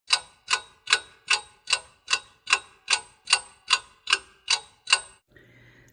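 Steady clock-like ticking, about thirteen sharp ticks at roughly two and a half a second, stopping about five seconds in, followed by a faint low hum.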